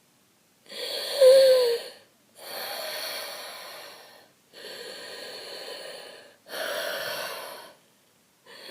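A person breathing heavily and raggedly: about four long, noisy breaths with short pauses between them, the first one loudest and with a brief voiced catch in it, then another breath starting near the end.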